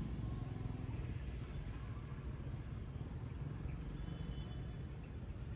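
Motorcycle engine fading away in the first second, leaving a steady low rumble, with faint high bird chirps from about two seconds in.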